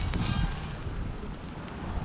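Wind rumbling on the microphone, with a couple of short crunches of footsteps in snow near the start.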